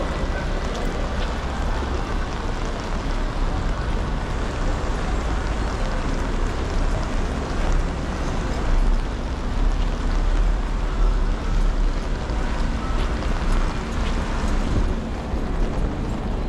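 Steady rain hiss over wet paving, with a constant low rumble underneath.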